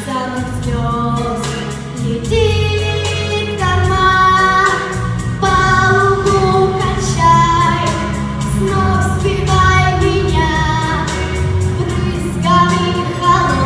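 A song: a solo voice singing a melody in held, sliding notes over an instrumental backing with a steady beat.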